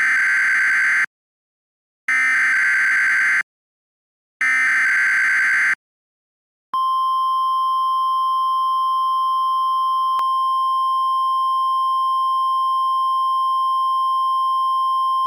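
NOAA Weather Radio alert signal: three short bursts of the digital SAME header, each about a second long, about two seconds apart, then a steady single high tone, the 1050 Hz warning alarm tone, starting about seven seconds in. These signal the start of a severe thunderstorm warning.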